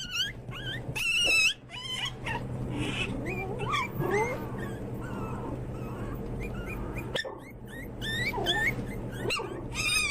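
Puppy whimpering in a long string of short, high-pitched squeaky cries that rise and fall in pitch.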